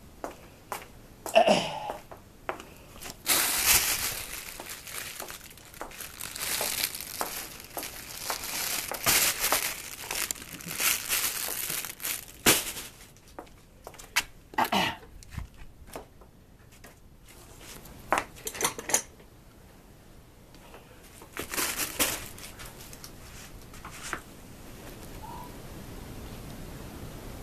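Something crinkly, like a plastic wrapper, being crumpled and shaken in irregular bursts, with scattered clicks and knocks; the crinkling is busiest in the first half and comes in shorter spurts later.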